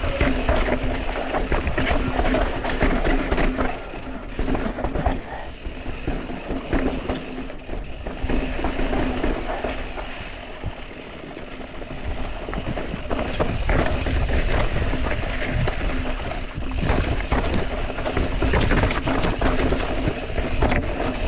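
Mountain bike rattling and clattering over a rough, rocky trail, with wind rumbling on the microphone; it eases off briefly about halfway through, then picks up again.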